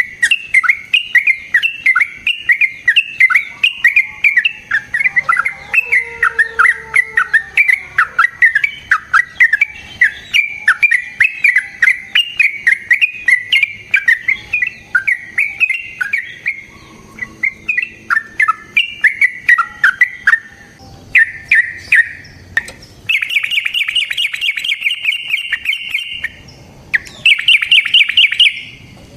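Yellow-vented bulbul singing a long, fast run of short bubbly notes. From about two-thirds of the way in, it changes to a harsher, rapid chattering trill in two long bursts.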